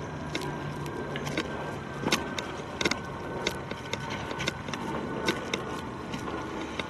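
Propeller-driven aircraft passing low overhead with a steady drone, and the crunch of footsteps on a rocky forest trail.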